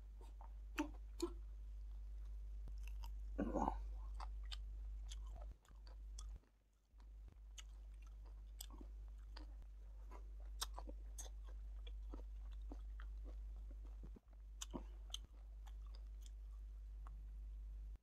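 A man chewing and eating food, with many small mouth clicks and a short vocal sound about three and a half seconds in, over a steady low hum.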